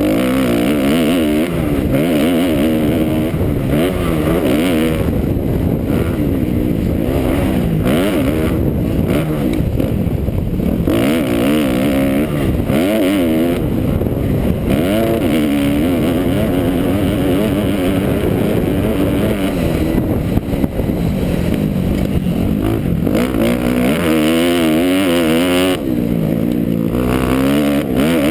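A 2009 Kawasaki KX250F's single-cylinder four-stroke engine runs hard without a break, its pitch rising and falling over and over as the rider works the throttle around a motocross track. It is heard from a camera mounted on the bike.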